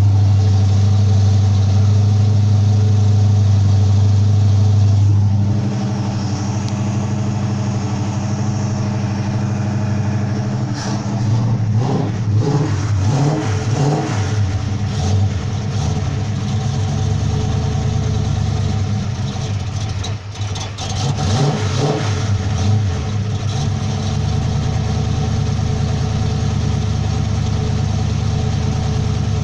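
Ford 351 Cleveland V8 with a 400 cam running cold, just after start-up. It holds a high idle for about five seconds, drops to a lower idle, and is revved in a run of blips in the middle and again briefly later on.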